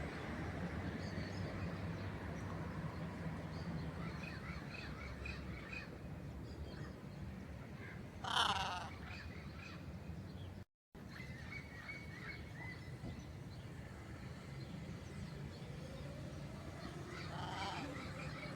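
Birds calling in a flock: many short chirps, a loud harsh squawk about eight seconds in and another near the end, over a steady low background rumble.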